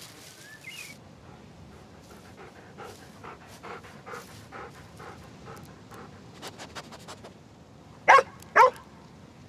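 A dog panting in quick, regular breaths, then two short, loud barks about half a second apart near the end.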